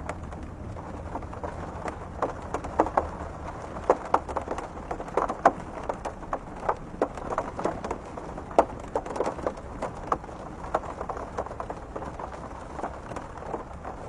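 Raindrops striking a window pane in an irregular patter of separate drops, some louder than others, over a low steady rumble.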